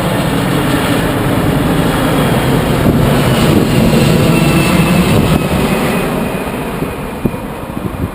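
Jet engines of a Boeing 747 cargo plane landing: a loud rush of engine noise that swells to a peak about four seconds in and then fades, with a faint falling whine in the middle. A couple of short knocks come near the end.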